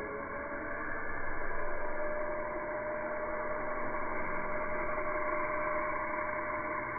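Remote control mini toy helicopter's small electric motors and rotor blades whirring steadily, with a steady whine over the whir.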